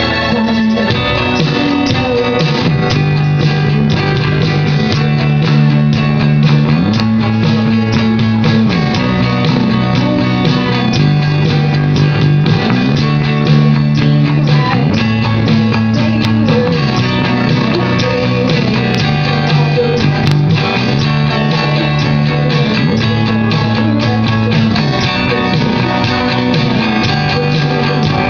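A live rock band playing an instrumental passage led by guitars, over a bass line whose sustained notes change about every two seconds in a repeating pattern.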